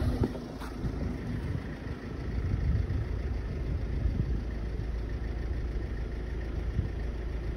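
Vehicle engine running with a steady low rumble and road noise, heard from inside the vehicle.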